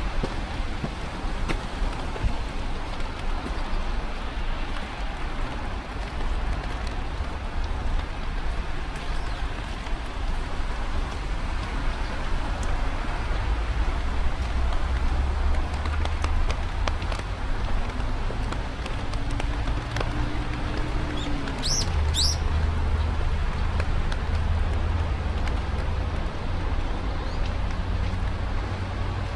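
Steady rain hiss with a low traffic rumble that swells now and then. A bird gives two short, high calls about three-quarters of the way through.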